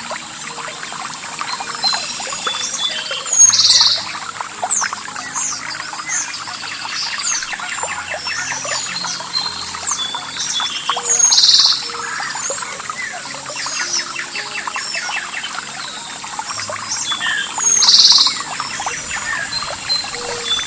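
Several birds chirping and singing over trickling water, with a louder call standing out three times.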